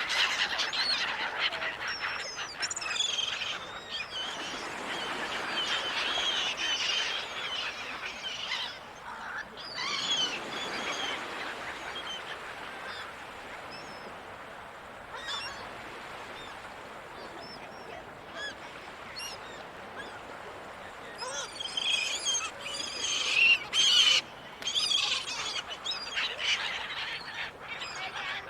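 Seagulls calling, many short overlapping cries, busiest near the start and again from about twenty-two to twenty-six seconds in, over a steady background hiss.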